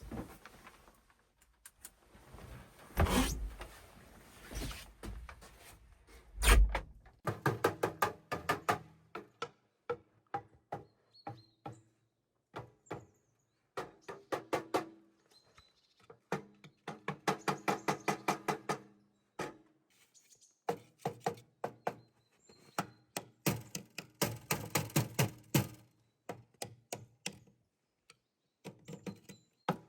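A few heavy thuds, then repeated bursts of rapid knocking, several sharp strikes a second with a ringing tone.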